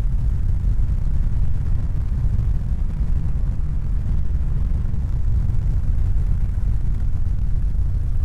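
A steady, deep rumbling noise, heavy in the bass, with no distinct tones, beats or separate events.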